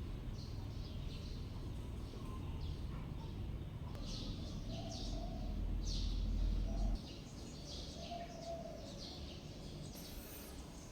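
Small birds chirping repeatedly over a low rumble that cuts off suddenly about seven seconds in.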